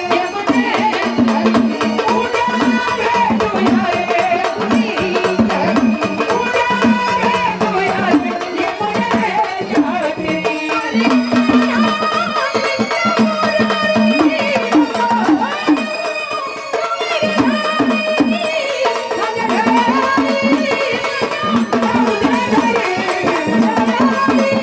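Marathi gondhal folk music: hand drums keep a fast, steady rhythm under a gliding melodic line.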